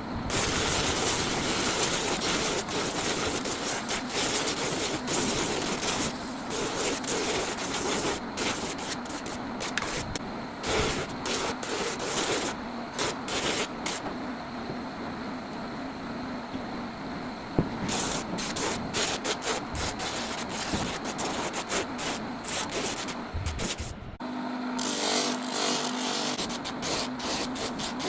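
Wood being abraded by hand, with repeated scraping, rubbing strokes across the surface. Near the end a steady low hum joins in.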